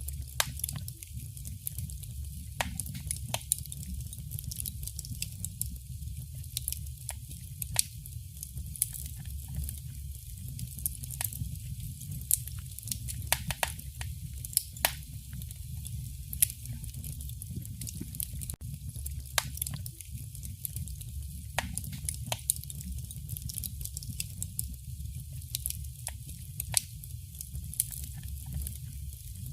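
Wood fire crackling in a fireplace: irregular sharp pops and snaps, several a second, over a steady low roar of the flames.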